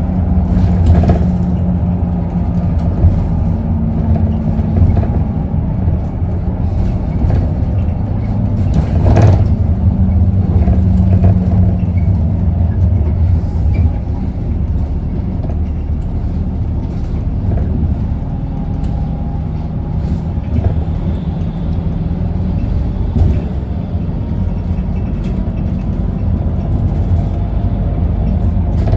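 Isuzu Erga city bus's four-cylinder diesel engine running steadily, heard from inside the cabin as a low hum, with scattered rattles and one sharper knock about nine seconds in.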